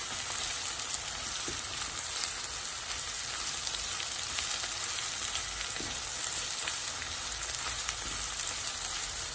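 Onions frying in hot oil in a pan: a steady sizzle with small crackles as they cook toward golden brown.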